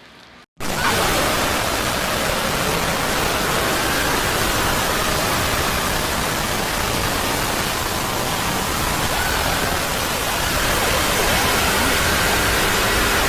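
Loud, steady static-like hiss that cuts in abruptly about half a second in and holds without a break, with faint wavering tones buried in it.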